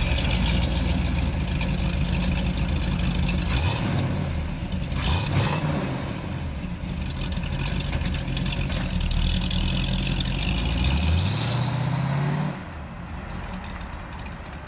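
Car engine pulling up through the gears, its pitch climbing and then dropping at gear changes about four and five seconds in. It climbs again and cuts back suddenly about two seconds before the end as the throttle is lifted. A steady rush of road and wind noise runs underneath.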